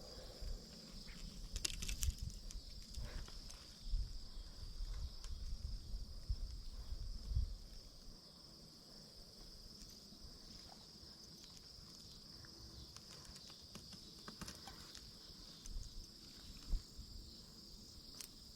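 Steady high-pitched insect chorus. Irregular low bumps and rumbles fill the first eight seconds, then settle to a quieter background.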